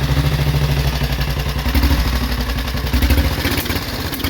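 A 1937 500 Sport motorcycle engine is running just after starting, exhausting through a high pipe. It swells louder a couple of times, around two and three seconds in, then eases back toward idle.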